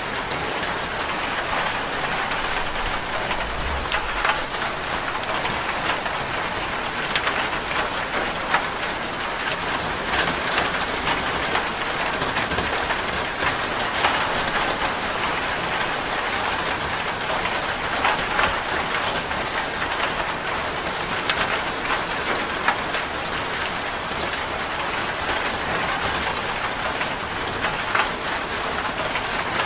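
Steady rain ambience: an even, continuous hiss with scattered sharp ticks, and a brief low rumble a little over three seconds in.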